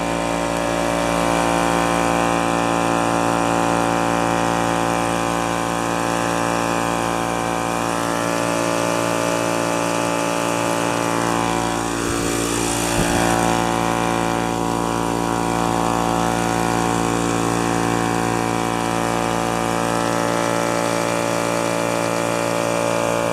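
DeWalt 4-gallon oil-lubricated air compressor running steadily after a start-up, its motor and pump filling the tank with air.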